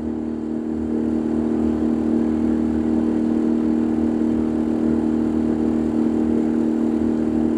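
Boat engine running steadily at low speed, an even hum with no change in pitch.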